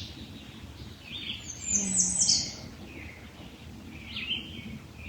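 Wild birds singing: a quick run of three high, falling notes about two seconds in, with softer chirps before and after it.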